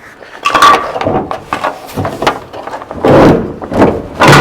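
1957 GMC truck's steel cab door clunking and scraping against its hinge and the cab as it is pivoted to free an upper hinge that the hinge pin is holding, with a series of loud metal knocks.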